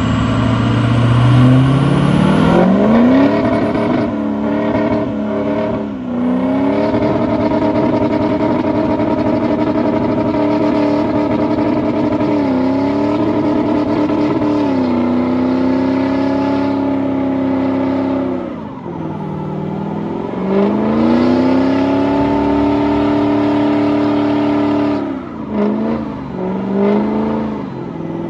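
A vehicle engine revved up and held at high revs for long stretches during a burnout. It dips and climbs back several times, then gives a few quick blips near the end.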